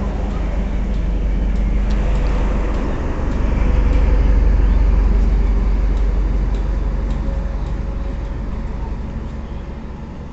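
Diesel-electric multiple unit (DEMU) train running beneath the camera and away: a deep engine and running rumble that grows to its loudest about four seconds in, then fades as the train draws off, with a few faint clicks.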